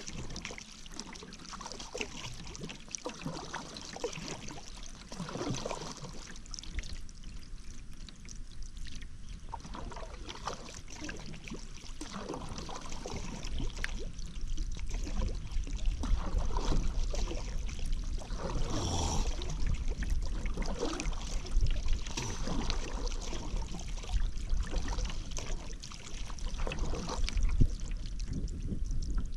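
Paddle strokes dipping into river water, with splashing and water dripping off the blade, and a low rumble growing louder from about halfway through.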